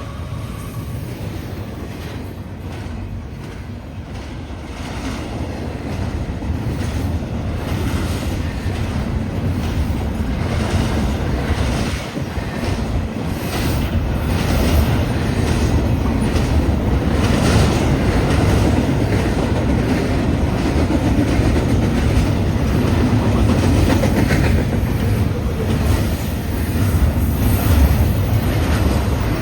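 Long freight train passing at speed: a steady rumble of wheels on rail with clickety-clack, growing louder over the first half.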